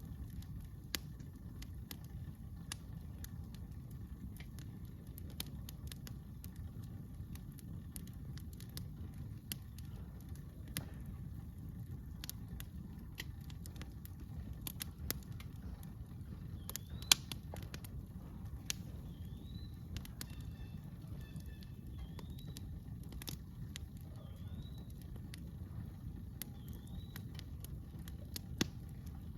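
Campfire crackling, with irregular sharp pops scattered throughout over a steady low rumble.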